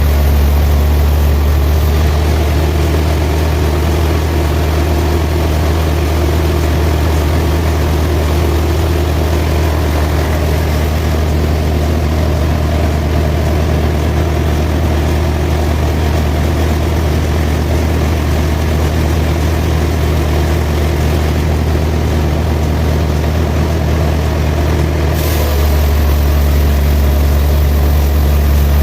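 Sawmill machinery running: a loud, steady, heavy engine hum. The sound shifts slightly about 25 seconds in.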